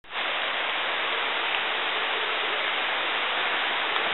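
Heavy tropical rain falling on the jungle canopy: a steady, dense hiss with no let-up.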